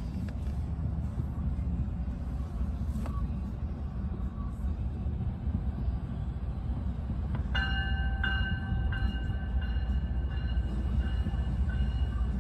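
MBTA commuter train rolling into the station with a steady low rumble. About seven and a half seconds in, the train's bell starts ringing, struck roughly every two-thirds of a second, as it pulls in.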